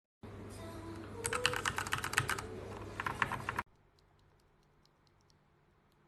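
Typing on a mechanical keyboard with Gateron Milky Yellow Pro linear switches: a fast run of key clacks, then a shorter burst about three seconds in. After that the sound drops away to a few faint, scattered clicks.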